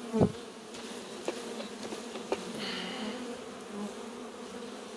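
A mass of honeybees buzzing from an opened Warré hive: a steady hum that the bees keep up after their frame has been shaken. A thump comes just after the start, and a few light clicks follow.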